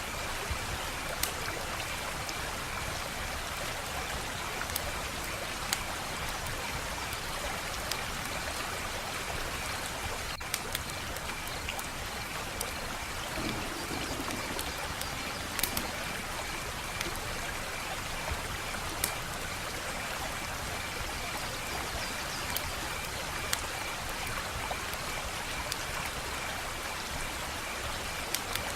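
Wood fire burning with a steady hiss and irregular sharp crackles and pops from the burning wood.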